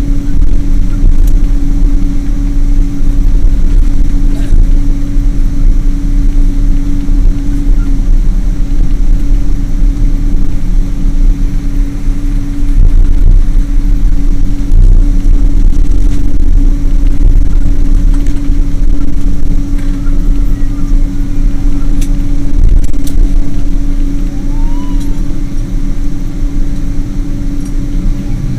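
Boeing 777 jet engines running, a loud steady low rumble with a constant hum above it.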